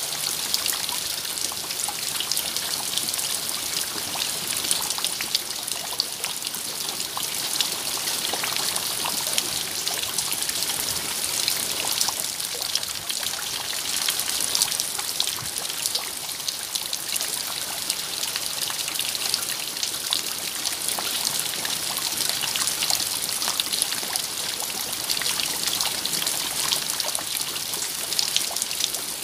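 Steady rain, a dense patter of many small drops with a trickle of running water, constant throughout.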